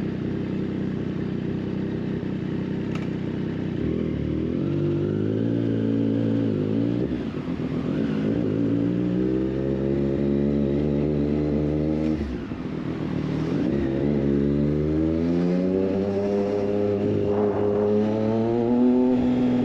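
Triumph Street Triple 765 RS's three-cylinder engine through a Racefit Growler full exhaust, heard on board while riding. It runs low and steady for the first few seconds, then pulls through the gears, its note rising and dropping back at upshifts about 7 and 12 seconds in before climbing again.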